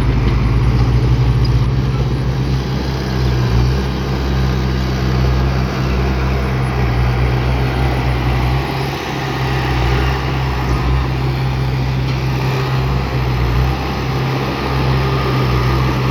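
Heavy diesel engine of a bulldozer running steadily at a low, even pitch, with mechanical noise over it. The low engine note dips briefly about nine seconds in.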